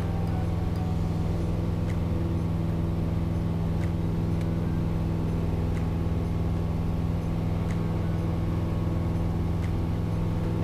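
Piper PA-28 180's four-cylinder Lycoming O-360 engine and propeller running steadily in the cabin during the climb after take-off, a constant low drone.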